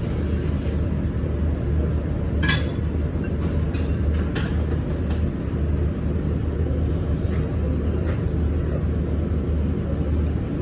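Ramen being eaten over a steady low rumble: a few light clicks against the bowl, then three short hissy slurps near the end.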